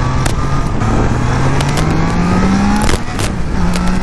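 Triumph Trident 660's three-cylinder engine and exhaust note as the bike accelerates: the pitch climbs steadily for about two seconds, breaks off briefly near the end and goes on a little lower. The inline-three's note has a whistling edge to it.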